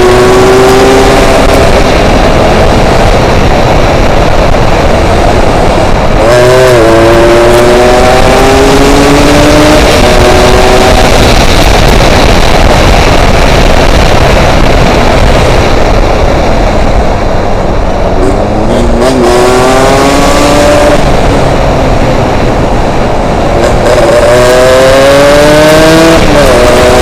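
Yamaha RX-King two-stroke single-cylinder motorcycle engine under way, its revs climbing, dropping back and climbing again several times as it goes through the gears. Heavy wind noise on the microphone runs over it.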